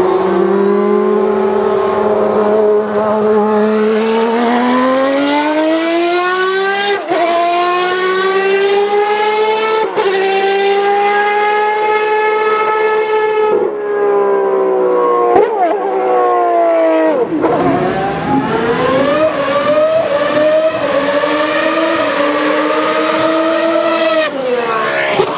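Ferrari V12 Formula One engine running at high revs, its pitch climbing and holding between sharp gear changes, each a brief dip in pitch. Revs fall away a little past the middle, then rise again near the end.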